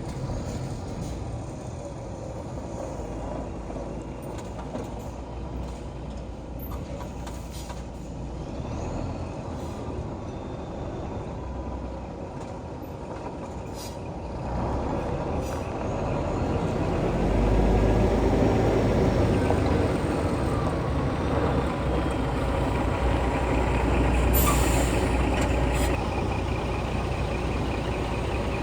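Scania G420 truck's six-cylinder diesel engine running steadily, growing louder about halfway through. A short hiss of air from the truck's air system comes about three-quarters of the way through.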